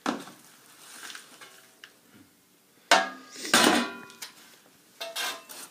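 Metal clanking and scraping at a wood furnace's firebox while its ashes are being cleared: a sharp clank at the start, two more about three seconds in, and another near the end, each ringing briefly.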